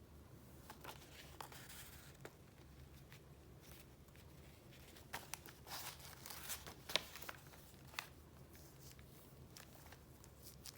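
Paper being handled: soft rustles, then a short run of crinkling in the middle with a couple of sharp clicks.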